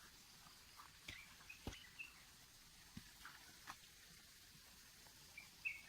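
Faint bird chirps: short high calls about a second in, again around two seconds, and a few more near the end, over quiet outdoor background with a few faint clicks.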